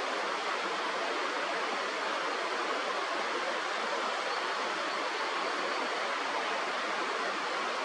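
Steady rush of flowing river water, an even noise with no change throughout.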